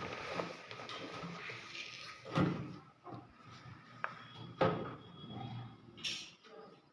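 Rubber door gasket of a front-load washing machine being worked off the front panel by hand: rubbing and scraping of rubber on the cabinet, with two knocks about two seconds apart and a sharp click between them.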